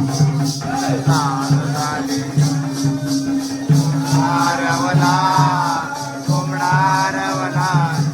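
Jakhadi folk music with an even drum beat and steady jingling percussion several times a second over a held drone note. From about four seconds in, a voice sings a drawn-out wavering melodic line without words.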